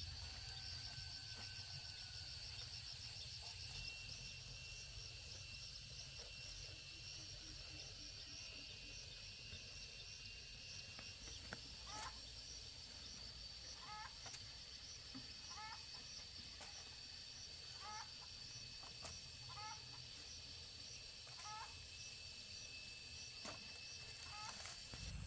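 Steady, high insect chorus, with a low rumble underneath. Through the middle of the stretch a bird gives a short rising call about every one and a half to two seconds.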